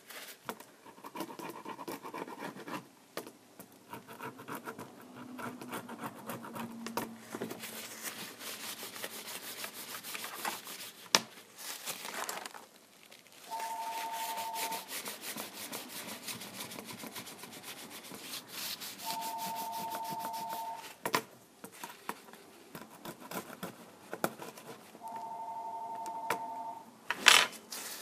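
A hand tool scraping and rubbing in many quick, uneven strokes, clearing broken screen glass and adhesive from a Kindle Fire tablet's frame. Three steady two-note electronic tones, about six seconds apart, sound over it, and there is a sharp click near the end.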